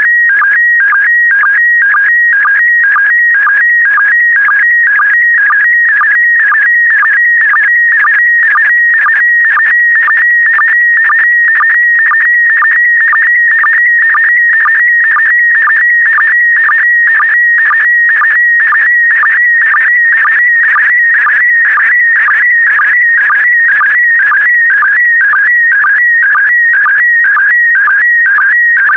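Slow-scan TV picture signal in PD120 mode: a steady, high, slightly wavering electronic tone near 2 kHz. It is broken by short regular ticks about twice a second, which are the line sync pulses between scan lines.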